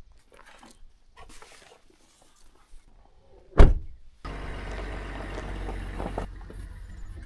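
Scattered faint knocks, then a single loud thump about three and a half seconds in, followed by a steady low rumble.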